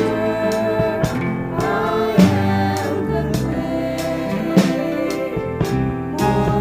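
Worship music: a band playing a gospel-style song with singing, sustained chords and bass, and a steady beat of drum hits.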